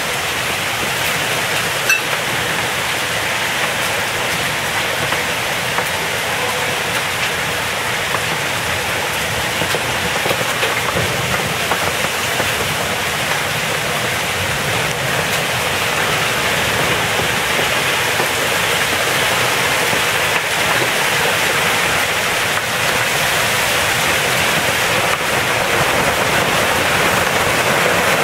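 Torrential thunderstorm rain beating down steadily, growing a little louder toward the end.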